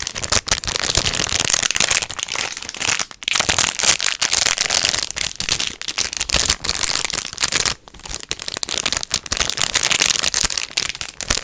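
Dense, close-up crinkling and crackling of the packaging of a pack of paper clips being handled right at the microphone, with brief pauses about three and eight seconds in.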